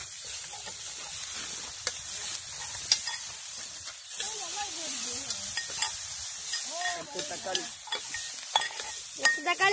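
Chicken frying and sizzling in a black kadai, stirred with a steel ladle that scrapes around the pan and knocks against it a few times.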